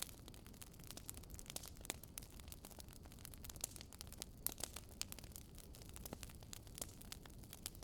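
Wood fire crackling in a fireplace: irregular sharp pops and snaps over a low, steady noise of burning.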